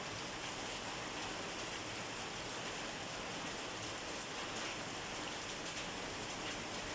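Steady rain falling on a surface, an even hiss of many drops without letting up.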